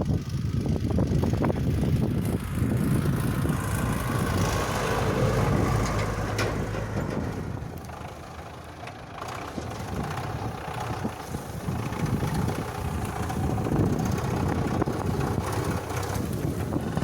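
GAZ-66 army truck's V8 petrol engine running as the truck drives over snow, with wind buffeting the microphone. The sound eases for a moment about halfway through, then picks up again.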